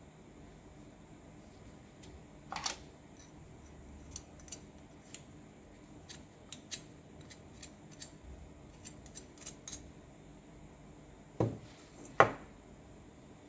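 Small metal parts and tools being handled on a workbench: scattered light clicks and clinks, a clack a couple of seconds in, and two louder knocks near the end.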